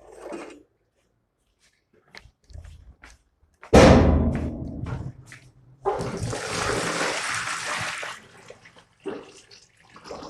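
Toilet flushing: a sudden loud rush of water about four seconds in, then a steady hiss of water for about two seconds that stops abruptly.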